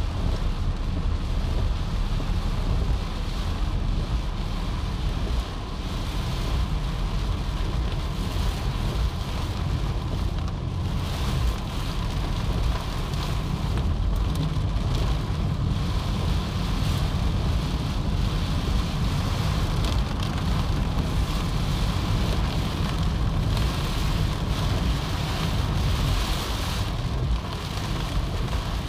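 Heavy rain and strong wind: a steady rushing noise with a heavy low rumble.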